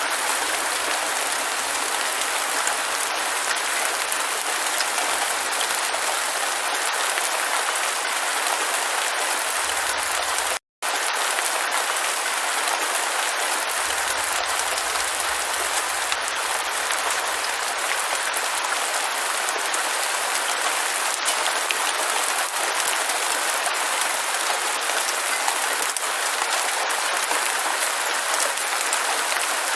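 Steady, dense hiss of heavy rain falling, cutting out to silence for a split second about eleven seconds in.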